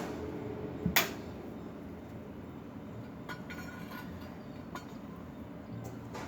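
Metal pieces being handled: a sharp knock about a second in, then a few light ringing clinks and fainter taps over a low steady hum.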